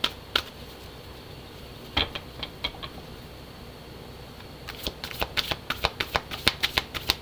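A deck of oracle cards being shuffled by hand: quick clicking and slapping of cards. A few scattered clicks come near the start and around two seconds in, then a quieter pause, and a fast run of clicks resumes about two-thirds of the way through.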